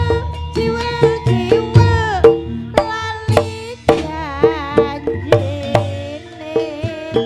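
Live Javanese kuda lumping music over a sound system: sharp kendang hand-drum strokes several times a second over sustained melodic tones, with a wavering, vibrato-laden lead line in the middle.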